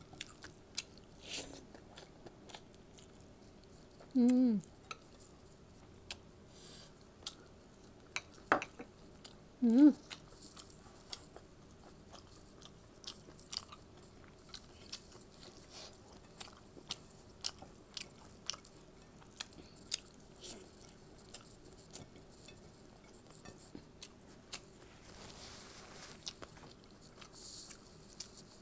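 A person chewing and eating with their hand, with many small wet clicks and smacks of the mouth. Two short hummed vocal sounds come about four and ten seconds in and are the loudest moments.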